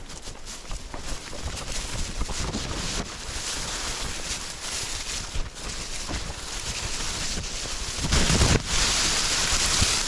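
Rustling and crackling of dry bamboo leaves and brush as someone pushes through a thicket on foot, with wind buffeting the microphone. The buffeting gets louder about eight seconds in.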